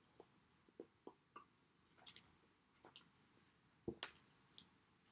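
Faint chewing of pizza: soft, scattered mouth clicks and squishes, with one sharper click about four seconds in.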